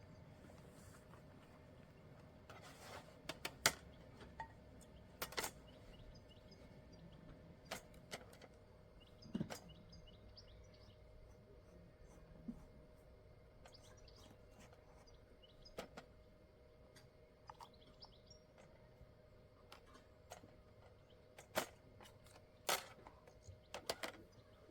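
Quiet forest ambience with faint, scattered bird chirps, broken by a dozen or so sharp light clicks and knocks at irregular moments, the loudest a few seconds in and again near the end.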